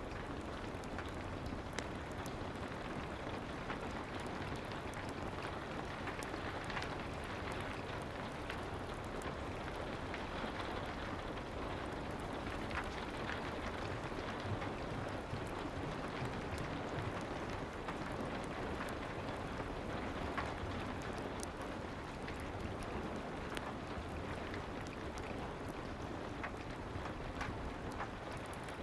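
Steady soft rain ambience mixed with a fireplace, with scattered small crackles and ticks through the even hiss of the rain.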